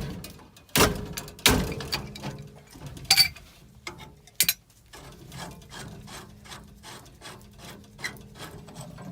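Wrench loosening a union on black iron gas pipe: several sharp metal knocks in the first few seconds, then a run of rapid scraping clicks, about four a second, as the fitting is worked loose.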